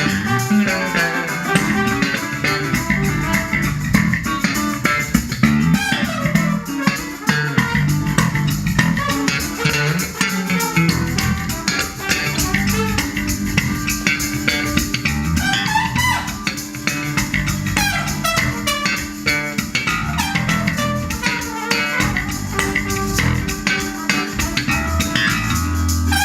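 A live band playing during a sound check: bass guitar and guitar with drum kit, steady throughout.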